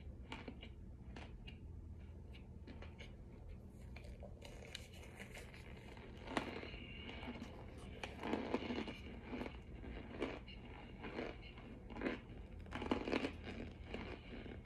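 Close-up biting and chewing of something hard and crunchy, faint crackles at first, then louder crunches about once a second from halfway through.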